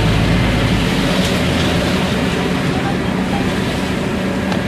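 Scania CN270UB city bus heard from inside the passenger cabin while driving: steady engine running and road noise, with a deep low drone that eases off about a second in.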